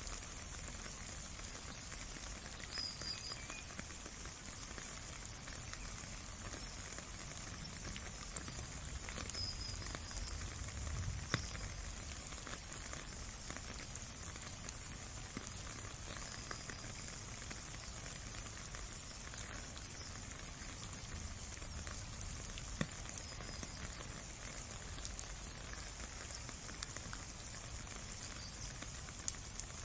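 Steady rain falling on wet ground and puddles: an even hiss with scattered single drops.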